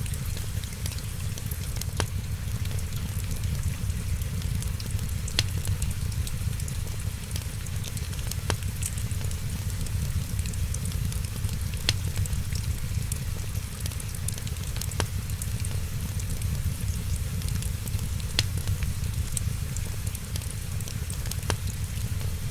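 Fireplace fire crackling, with a sharp pop about every three seconds over a steady hiss and a low rumble.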